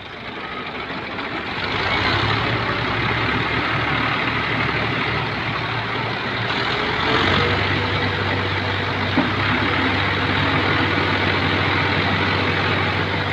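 Diesel tractor engine picking up revs about two seconds in and then running hard and steady under load. A thin steady whine joins it about seven seconds in.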